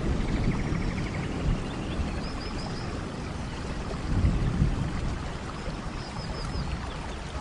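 Steady tropical rain with low swells of rumble, and a bird calling twice with a quick run of three or four high chirps.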